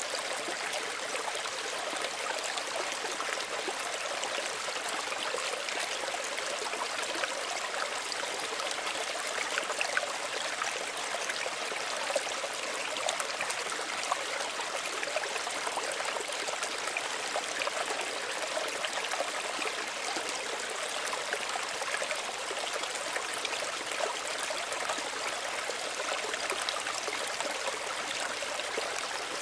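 Small stream running over stones: a steady, even babble and trickle of water with no breaks.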